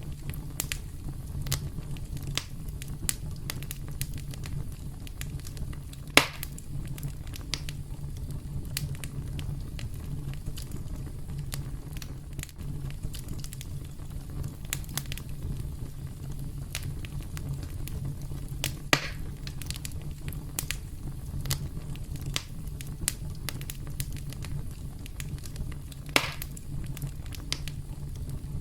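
Campfire crackling: a steady low rumble of burning with frequent small snaps, and three louder pops about six, nineteen and twenty-six seconds in.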